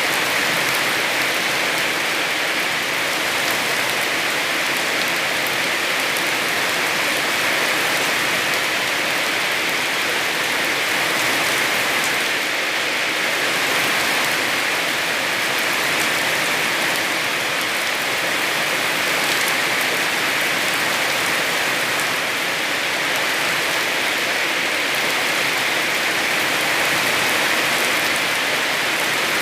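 Heavy rain falling steadily on a surface, a dense even hiss with fine patter of individual drops.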